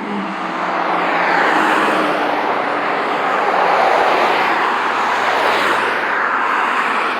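Highway traffic passing close by: tyre and engine noise swelling and easing as vehicles go past.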